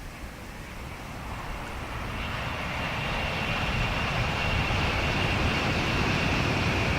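Tokaido Shinkansen high-speed train approaching at speed: a rushing noise that grows louder over about three seconds and then holds steady, with a high whine coming in about two seconds in.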